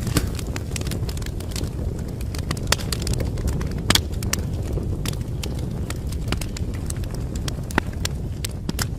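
Wood fire crackling, with irregular sharp pops over a steady low rumble of the flames; the loudest pops come near three and four seconds in, and again near the end.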